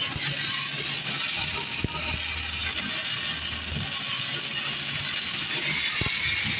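Stick-welding arc from an E6010 electrode, crackling steadily as it runs a vertical (3G) open-root pass; the coach takes it as a sign of good penetration.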